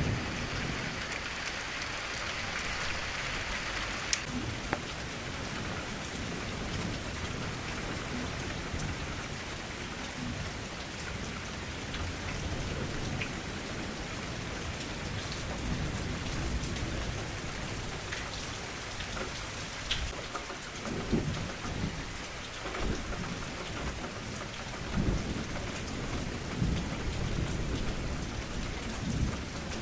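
Steady rain falling, heavier for the first few seconds and easing about four seconds in, with low rumbles of thunder several times in the second half.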